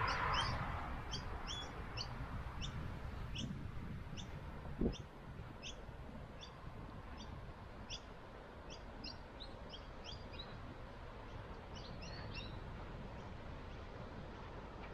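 A small bird calling with short, sharp chirps, about two a second, stopping about twelve seconds in, over a steady rumble of wind. A single thump sounds about five seconds in.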